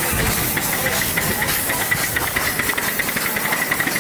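Miniature steam locomotive running, with a quick, regular ticking beat over a steady hiss of steam.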